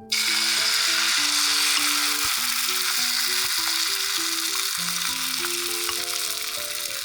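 Food frying in hot fat, a loud sizzle that starts suddenly and eases slightly over the seconds. Simple background music of held melodic notes plays underneath.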